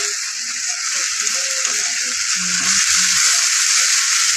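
Sliced onions and ground spice paste sizzling steadily in hot oil in an aluminium kadai while being stirred with a spatula: the masala is being sautéed until its raw smell is gone.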